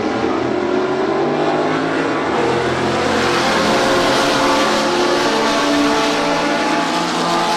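Historic sports-racing car engines running hard on a race circuit: several engines are heard at once, their pitches shifting slightly as the cars accelerate and lift.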